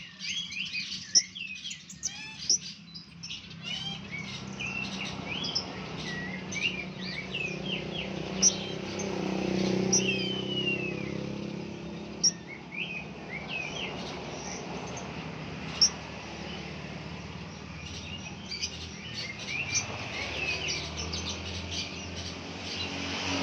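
A group of blue-crowned hanging parrots (serindit) chirping: many short, high calls and quick up-and-down sweeps, overlapping throughout, over a low steady background hum.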